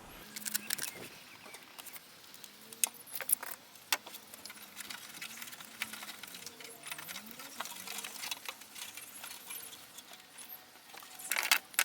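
Cardboard being worked into a template by hand: scattered scratching and rustling with small clicks, busier near the end.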